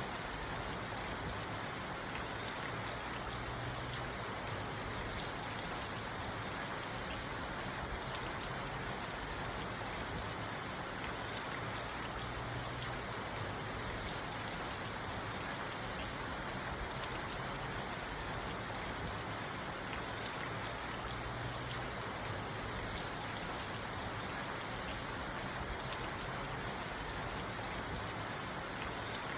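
Steady rain falling on a parked car, heard from inside the cabin as an even hiss with fine drop ticks.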